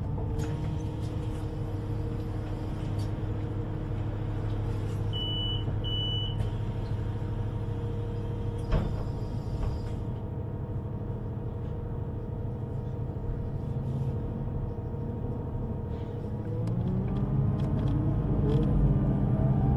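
Electric underground train: a steady hum and rumble, with two short high beeps about five to six seconds in, then a rising whine of the electric traction motors as the train pulls away near the end.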